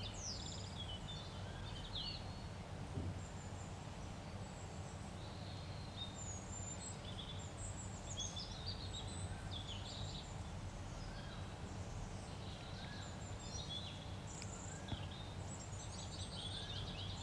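Small birds chirping and twittering in the background, many short high calls scattered throughout, over a steady low hum.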